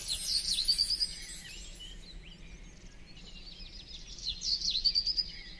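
Songbirds chirping and trilling in two bursts, one at the start and another about four seconds in, with quieter scattered chirps between them.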